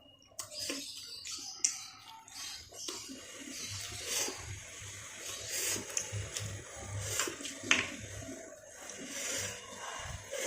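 Close wet chewing and mouth smacking of a person eating, with many irregular small clicks.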